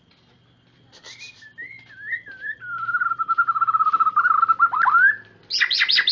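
White-rumped shama (murai batu) singing: after about a second of quiet, a sliding whistle that settles into a long, held warbling note, then a fast run of sharp falling notes near the end.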